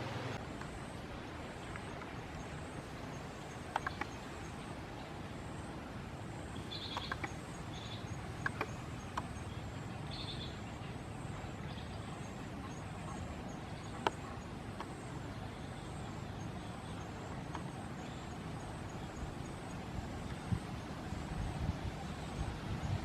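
Steady outdoor background noise with a few faint short high chirps and scattered clicks.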